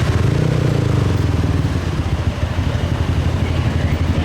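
Motorbike engine running at low speed among other motorbikes, a steady low engine sound.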